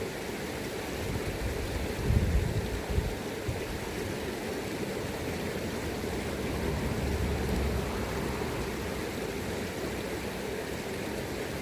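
River water rushing steadily, with gusts of wind buffeting the microphone as low rumbles, strongest about two seconds in and again around seven to eight seconds.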